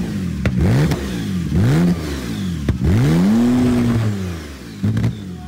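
A turbocharged Porsche 911 engine revved in a series of quick blips, the longest a little past the middle, with sharp exhaust pops and flames between revs. The owners hear it as running a little rich.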